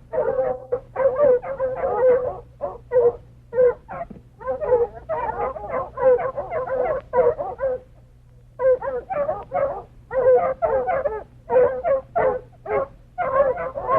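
Dog whining and yipping in a rapid run of short, wavering high-pitched calls, with a brief pause a little past halfway.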